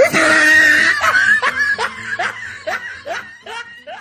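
A laughing sound effect: a loud burst of laughter, then short snickering 'heh' sounds, each sliding up in pitch, about two or three a second, trailing off near the end.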